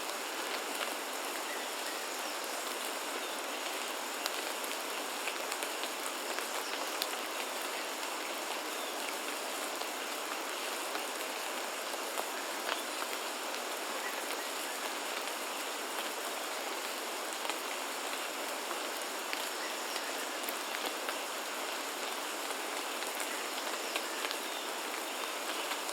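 Steady rain falling, with many individual drops ticking against surfaces, and a faint steady high-pitched tone in the background.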